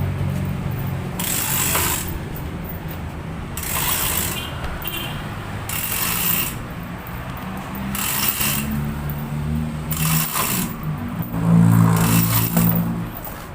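A hand-operated ratchet mechanism clicking in repeated strokes about every two seconds, typical of working a manual hoist or ratchet while fitting the engine. A low hum runs underneath.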